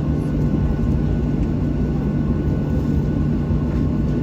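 Steady engine and air-conditioning noise heard inside the cabin of a Boeing 737-800 with its CFM56-7B engines running: an even low rumble with a constant hum.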